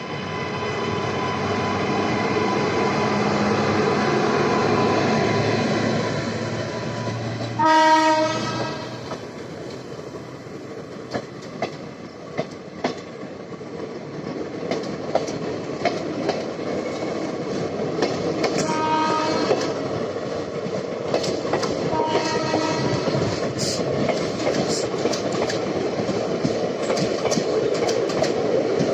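Passenger train moving off and running, its wheels clicking over rail joints. The locomotive horn sounds one strong blast of about a second, then two shorter, fainter notes later on.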